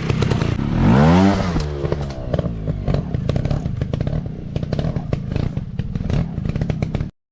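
Dirt bike engine running hard off-road, revving sharply up about a second in and dropping back, with irregular clattering knocks throughout; the sound cuts off abruptly just before the end.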